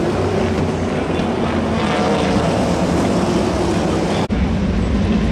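Sprint car engines running hard around the track during the race, with a brief break in the sound about four seconds in.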